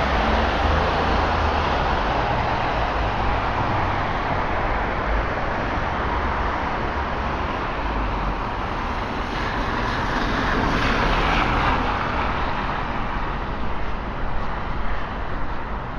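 Road traffic on a wet road, tyres hissing through standing water. One vehicle passes loudest about ten to twelve seconds in, and the sound grows more uneven near the end.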